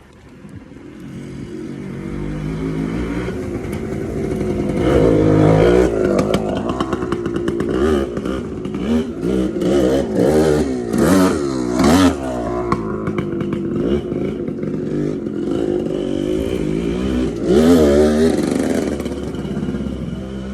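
Suzuki TC125 two-stroke single-cylinder dirt bike engine running, growing louder over the first few seconds, then revved up and down several times. It is running freely after a carburettor clean.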